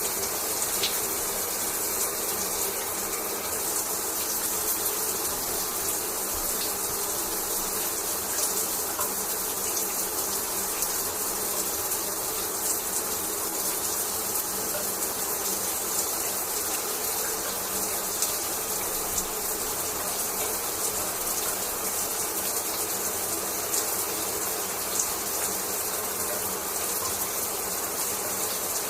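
Shower running steadily, water spraying and falling as an even hiss with faint scattered patters.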